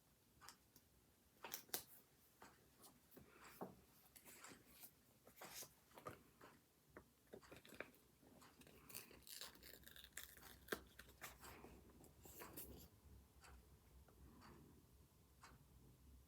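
Faint sounds of planner supplies and paper being handled: scattered small clicks and taps with soft paper rustling, busiest around the middle.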